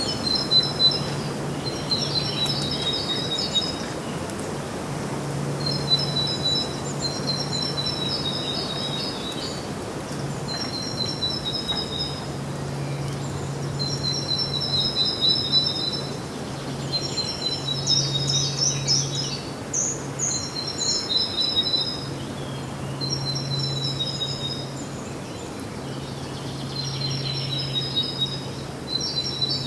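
Songbird singing: short phrases of quick, high, trilled notes repeated every two seconds or so, with a low steady hum underneath that comes and goes.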